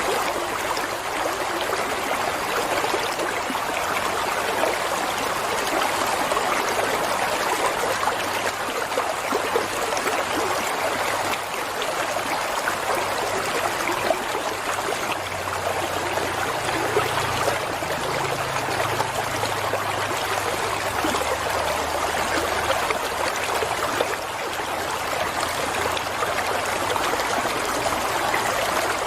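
Water flowing steadily, an even, unbroken sound of running water.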